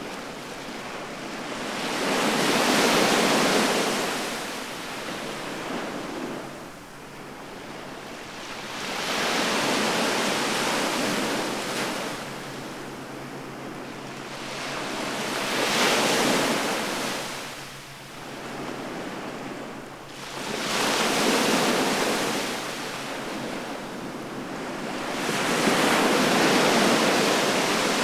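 Sea waves breaking on the shore, each one swelling up and washing back, about every five to six seconds; five surges in all.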